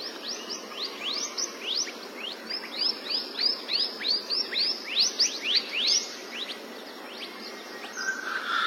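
A bird giving a rapid series of short, high chirps, about three a second, that thin out after about six seconds, over a steady outdoor hiss.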